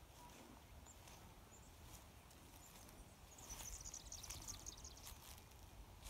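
Faint small-bird calls: a few short high chirps, then a rapid high twittering run of chirps lasting over a second about halfway through. Soft footsteps in dry grass now and then.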